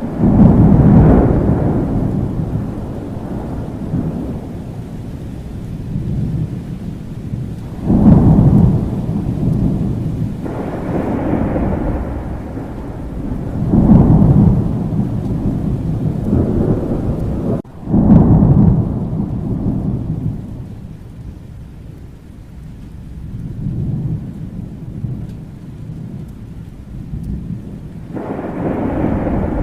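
Thunderstorm: rain falling steadily under repeated rolls of thunder. Four loud rolls come at the start and then about 8, 14 and 18 seconds in, each fading over a few seconds, with softer rolls between.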